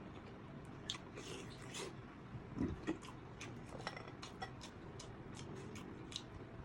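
Faint close-up eating of sea snail meat: quiet chewing with scattered small clicks and taps, and a short louder mouth sound about two and a half seconds in.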